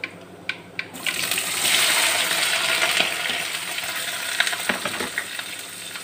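Food hitting hot oil in a kadai and sizzling, starting suddenly about a second in, loudest just after and slowly easing off, with a few light clicks of a utensil.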